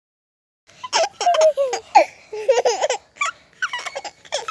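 A baby laughing and babbling in short high-pitched bursts, starting just under a second in.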